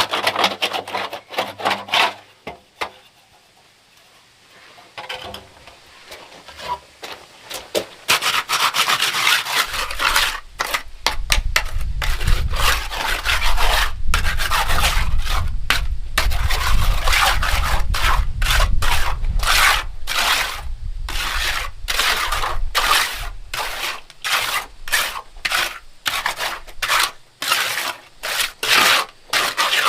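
Repeated rough scraping and rubbing strokes, many short strokes in a row, starting after a quiet stretch of a few seconds; a low rumble runs under them through the middle.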